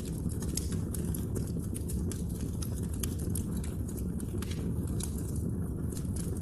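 Wood fire crackling in a fireplace: many irregular sharp pops and snaps over a steady low rumble of burning.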